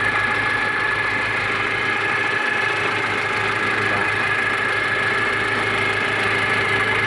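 Nissan TD27 four-cylinder diesel engine in a forklift, idling steadily after a fresh overhaul while it is run in.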